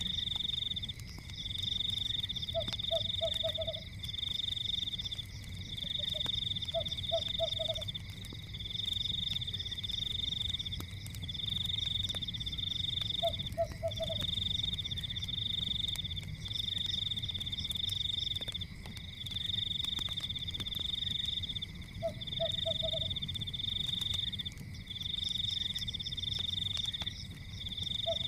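A night chorus of frogs: a high pulsing trill repeats in phrases of a second or two over a steady high drone. Short runs of lower croaks come in every few seconds, above a low rumble with faint crackles of a fire.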